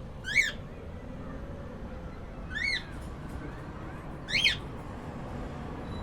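Cockatiel giving three short whistled calls about two seconds apart, each rising and then falling in pitch, over a low steady rumble.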